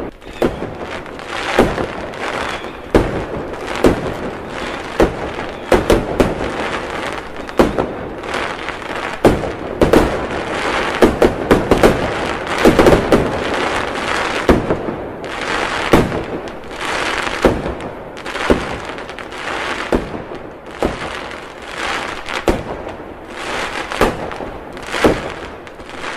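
Fireworks display: aerial shells bursting with sharp bangs about once a second at irregular spacing, over a continuous hiss.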